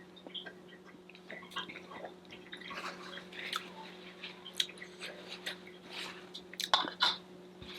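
Close-miked chewing of a rice and vegetable meal: soft, irregular wet mouth clicks and smacks, a little louder and busier in the second half.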